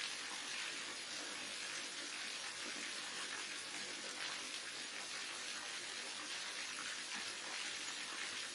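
Waterfall: a steady, unbroken rush of falling water splashing.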